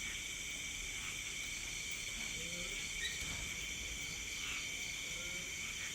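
Steady chorus of night insects, crickets trilling without pause at several high pitches, with faint distant talk now and then underneath.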